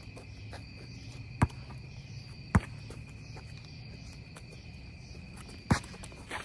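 A basketball bouncing on an outdoor court, three separate sharp thuds spaced unevenly, over a steady high buzz of crickets.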